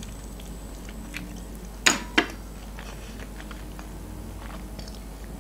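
A person chewing a piece of beef tongue, with soft mouth clicks throughout and two sharp clicks close together about two seconds in.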